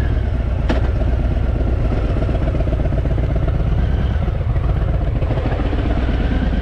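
Harley-Davidson Fat Boy's V-twin engine running steadily just after starting, a deep even rumble with no revving, and a brief click under a second in.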